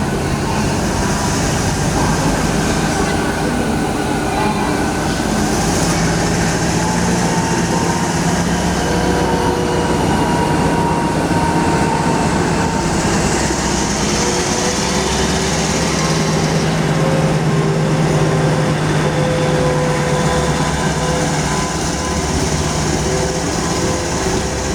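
Passenger train running steadily: a continuous loud rumble of engine and wheels, with a few steady tones that drift slowly in pitch.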